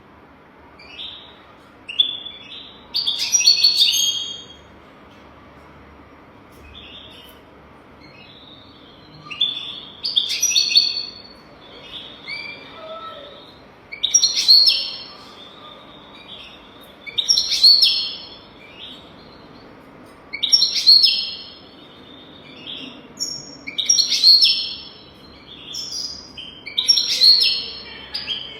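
European goldfinch singing: bursts of fast, liquid twittering phrases about every three to four seconds, with quieter twitters in between. This is a tutor song for teaching young goldfinches.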